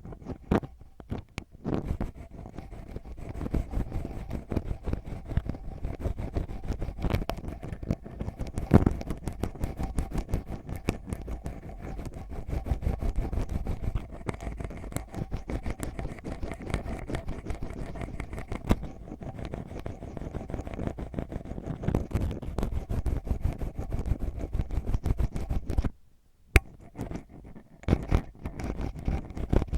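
Ear pick scratching and rubbing deep inside an ASMR microphone ear: a dense, rapid run of close scratchy strokes with a heavy low rumble. It stops for a moment near the end, then starts again.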